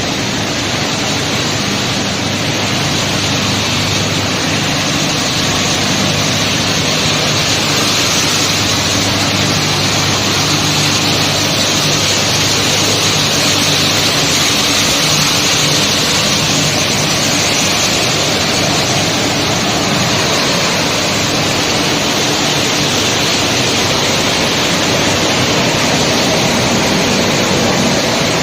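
PET bottle crushing and washing line running: a loud, steady rushing noise with a low motor hum underneath.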